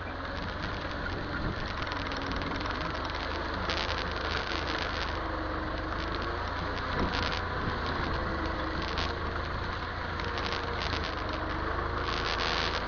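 Massey Ferguson tractor engine running steadily, with brief bursts of higher-pitched rattle or hiss now and then.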